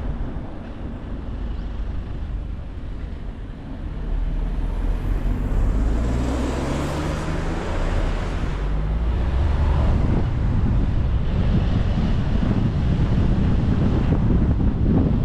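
Car driving on a road, with steady road and wind noise. About four seconds in, the sound gets louder and an engine note rises in pitch for a few seconds as the car speeds up.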